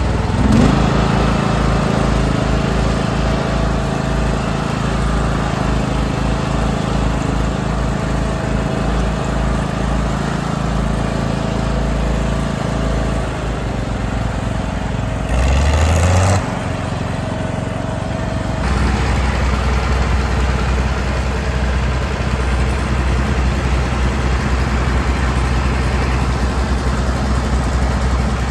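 Tractor engine running at a steady idle. It picks up briefly about half a second in, surges louder for about a second near the middle, and then settles to a slightly different steady note for the rest.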